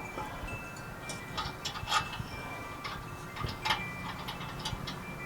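Light metallic clicks and clinks at uneven intervals, a few ringing briefly: tools and exhaust pipe being handled during reinstallation.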